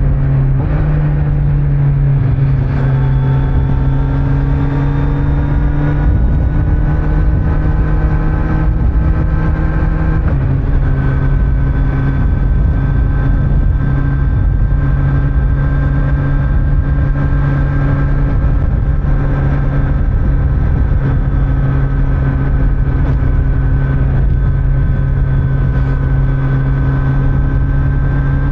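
Kawasaki Z900's inline-four engine with stock exhaust pulling steadily on the road, with wind and road noise underneath. Its pitch creeps up for the first several seconds, drops a step about ten seconds in, then holds steady at cruising speed.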